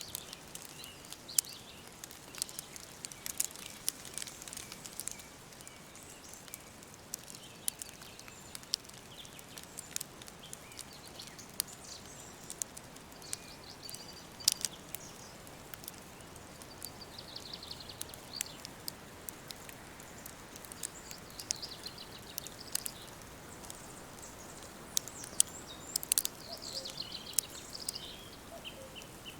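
Wood fire crackling, with frequent sharp pops at irregular intervals, while birds chirp now and then, mostly in the second half.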